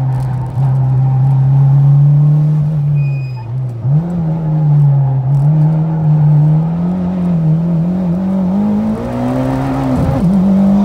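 Mitsubishi Lancer Evolution X's turbocharged 2.0-litre four-cylinder engine heard from inside the cabin under hard track driving. The pitch falls as the car slows for a corner, jumps suddenly about four seconds in, then climbs steadily under acceleration, with a brief dip near the end like a gear change.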